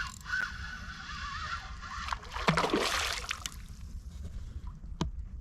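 Water splashing and sloshing, loudest for about a second and a half from two seconds in, as a hooked asp thrashes at the surface.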